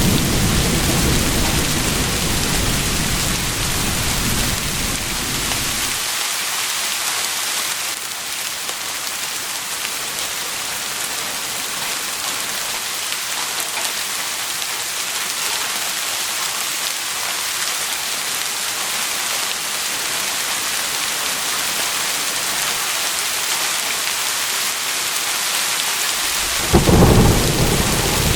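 Steady rain with thunder. A low rumble of thunder stops about six seconds in, and a fresh, louder thunderclap breaks near the end.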